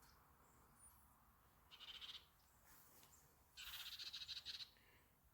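Faint animal calls: two short, rapidly pulsing high-pitched trills, about 2 seconds and about 4 seconds in, the second lasting about a second.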